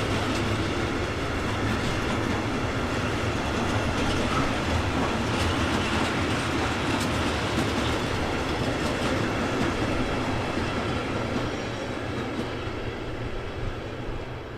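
A train's wagons rolling past close by, wheels clattering over the rail joints, the sound easing off near the end as the train draws away.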